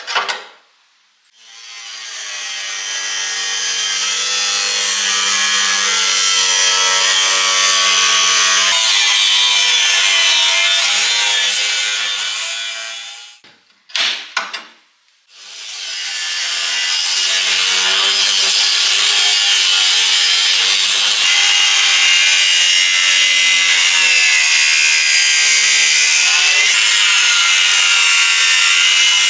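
Electric power tool spinning up and grinding against the steel of an old saw blade, a rough hiss over a motor hum. It is switched off about 13 seconds in, briefly clicks, then spins up again and runs steadily.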